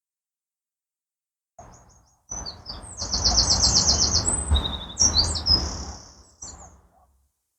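A small songbird singing: quick high chirps and a rapid trill of about ten notes a second, over a low rumbling noise. It starts about one and a half seconds in and fades out near the end.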